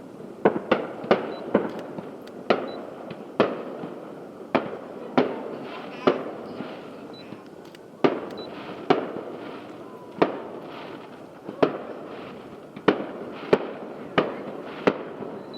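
Aerial fireworks bursting at a distance: a long irregular series of sharp booms, each followed by a rolling echo. There is a quick cluster of bangs in the first second and a half, then roughly one boom a second.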